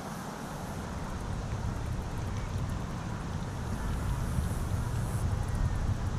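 Train approaching: a low rumble that grows steadily louder.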